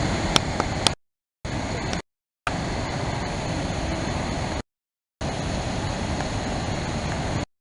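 Small waterfall rushing with a steady, even roar of falling water, heard in four separate stretches that cut off abruptly into silence. There are a couple of sharp clicks in the first second.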